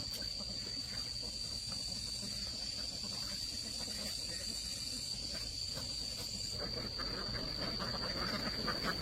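Insects droning steadily at one high pitch over a low background rumble, with a run of rustling and clicking that starts about seven seconds in and grows busier.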